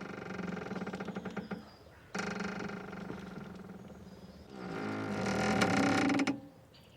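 Boat's mooring rope creaking and squeaking under strain as the boat moves, in three long drawn-out creaks, the last one the loudest.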